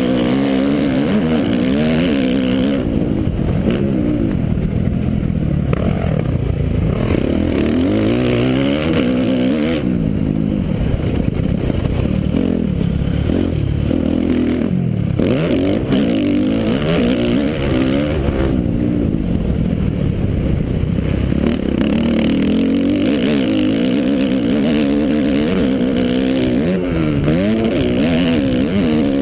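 Dirt bike engine ridden hard around a motocross track, recorded on board: the revs climb and drop over and over as the throttle is opened and shut, with several brief off-throttle dips.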